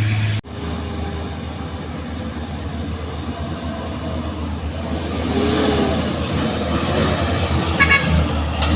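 Heavy truck engine running with a pulsing low note. The sound cuts out briefly about half a second in, and a brief high-pitched squeal comes near the end.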